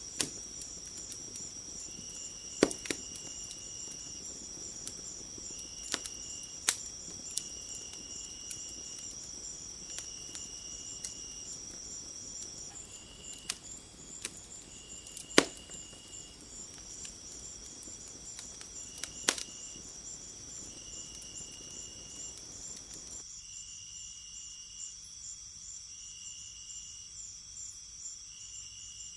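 Insects chirring steadily in a high, pulsing chorus, with a short repeated chirp every second or so, over a wood fire crackling with a handful of sharp pops. The fire's low crackle drops away about three quarters of the way through, leaving the insects.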